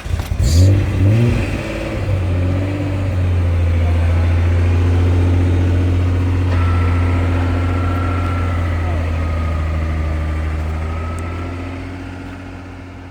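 High-horsepower drag car engine blipped a few times, revs rising and falling quickly, then running steadily. A faint high whine joins about halfway through, and the engine sound fades near the end.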